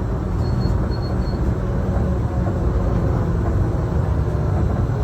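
Disneyland Mark VII monorail running along its beam, heard from inside the driver's cab as a steady low rumble of drive and tyre noise. Three faint short high beeps sound within the first second and a half.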